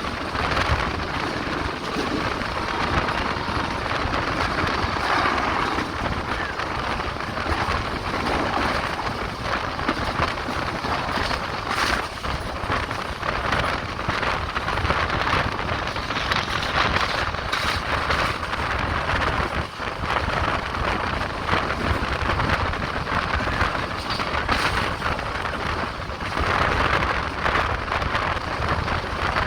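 Express passenger train running along the track: a steady rumble and rushing noise of the moving carriages, with a constant clatter of small knocks and rattles.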